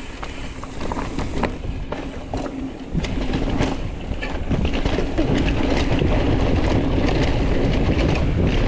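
Mountain bike rolling along a dirt trail: tyre rumble and rattling knocks from the bike, with wind on the microphone, growing louder about three seconds in.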